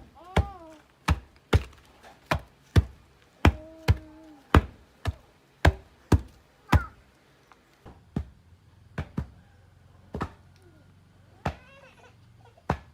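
Repeated sharp blows of a hand tool on a hard material, about two a second for the first eight seconds, then fewer and lighter. A few short high-pitched calls come between the blows.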